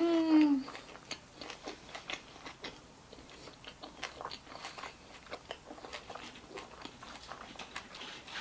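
A person chewing a mouthful of Subway sandwich with pork-rib filling, close to the microphone: many small, irregular wet clicks and crunches of chewing. It opens with a short hummed "mmm" of enjoyment.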